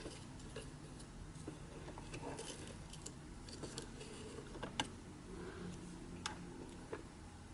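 Faint scraping and scattered light clicks of a cleaning tool working dust and lint out from under the sewing machine's removed plate, with a sharper click a little under five seconds in.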